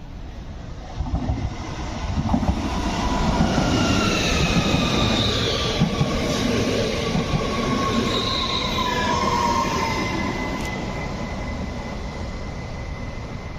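A train passing through a station close by: the rumble of wheels on rail builds about a second in, is loudest in the middle and then fades. Thin high-pitched tones sound over it, slowly falling in pitch.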